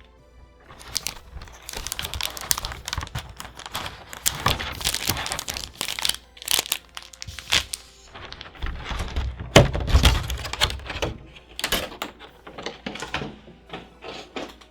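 Trading card box packaging being handled and opened: plastic and paper crinkling and crackling in quick, irregular snaps, with heavier low thumps and rustling about nine to ten seconds in.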